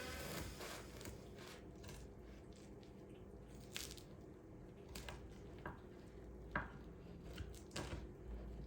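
Faint kitchen handling sounds: a handful of light clicks and taps, spaced about a second apart, over low room tone.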